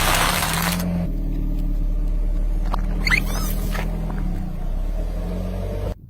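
A car engine running steadily at low speed, with a loud burst of noise in the first second and a short squeak about three seconds in. The sound cuts off abruptly near the end.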